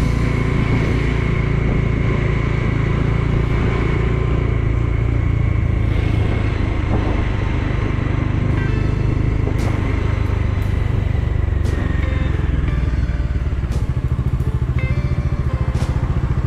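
Bajaj Dominar 400's single-cylinder engine running as the motorcycle is ridden at low speed; near the end its beat turns into a slow, pulsing chug as the bike slows down.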